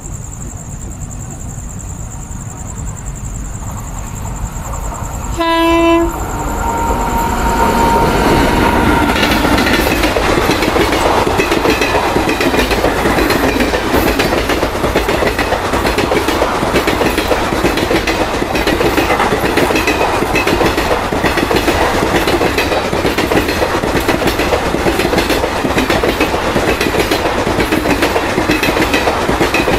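An Indian Railways express train sounds a short horn blast about six seconds in, then passes close by at speed, its wheels clattering over the rail joints in a steady rhythm. Before the horn, insects chirp with one high steady tone over the low rumble of the approaching train.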